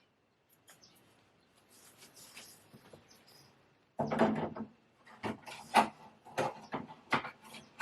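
Objects being handled and set down on a hard surface: a soft scraping, then a series of about eight sharp knocks and clatters starting about halfway through.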